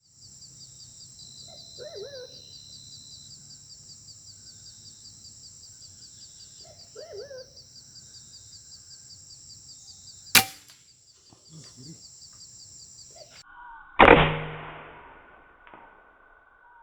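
Steady high-pitched insect drone with two short bird calls, a sharp click about ten seconds in, and then the loudest sound, a sudden crack with a short ringing tail a few seconds from the end, fitting an air rifle shot at a green pigeon.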